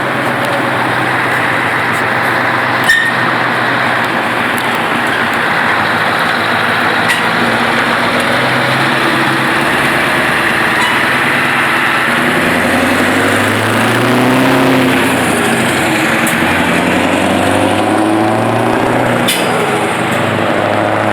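V8 engine running, its pitch steady at first, then rising and wavering from about halfway through, loudest a little later.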